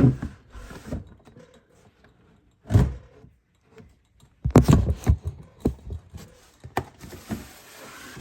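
Plastic snake tubs being handled and slid in a rack: a knock about three seconds in, a cluster of knocks and thuds around five seconds, a few clicks, then a soft scraping hiss near the end.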